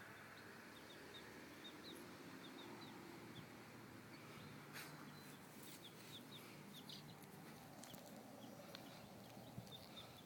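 Baby chicks peeping faintly, short high peeps scattered through, several a second at times. There is a single soft click about five seconds in.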